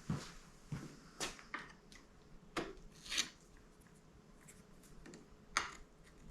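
Small handling noises at a motorcycle handlebar, where the grip is going on and the bar end is being taken off: a scattered, irregular series of short clicks and taps with faint rubbing in between.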